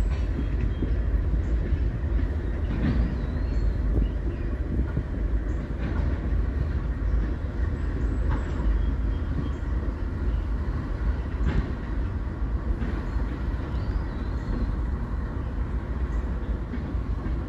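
Freight train rolling across a steel girder bridge: hopper cars and a rear GE Dash 9 pushing locomotive make a steady low rumble, with a sharp wheel click every few seconds.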